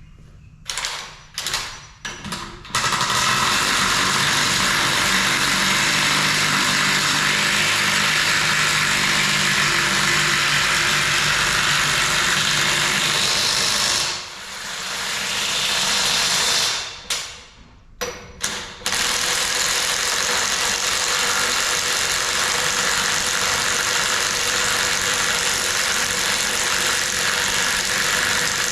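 Handheld power tool run in a few short trigger bursts, then held on for long stretches, with a brief stop and spin-up partway through.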